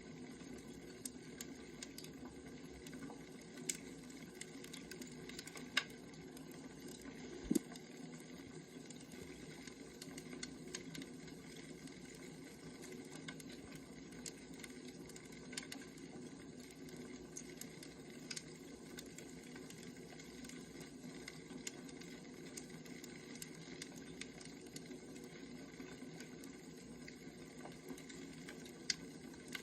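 Firewood burning: a faint, steady hiss dotted with irregular sharp crackles and pops, a few of them louder.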